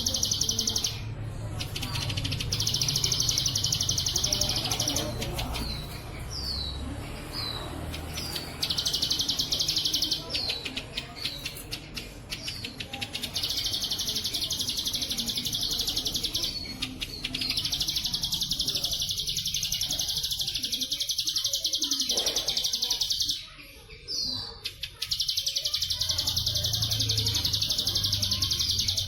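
Ciblek sawah (a prinia) singing: long, high, buzzing trills lasting several seconds at a time, cicada-like in the 'bren cililin' style, alternating with short hooked chirps.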